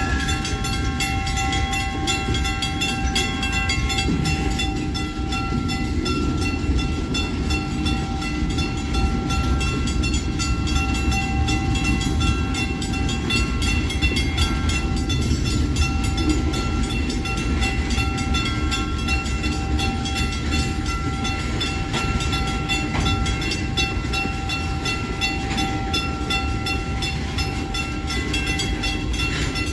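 Freight train rolling through a railroad crossing with a steady low rumble, while the crossing's warning bell rings rapidly and evenly.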